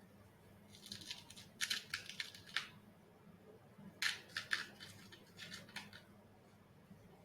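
Two runs of quick, scratchy clicks, about a second in and again around four seconds, from small plastic robot-head parts being screwed together by hand.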